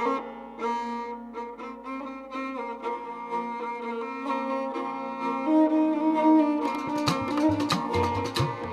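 Rajasthani folk instrumental music: a kamaicha, a bowed string instrument, plays a melody over a held drone, and rhythmic percussive strikes come in about seven seconds in.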